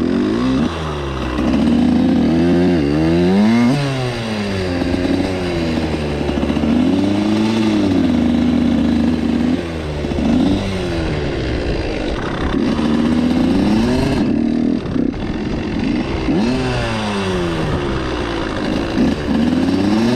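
Suzuki RM85 dirt bike's two-stroke single-cylinder engine being ridden, revving up and falling back again and again between short stretches of steady throttle.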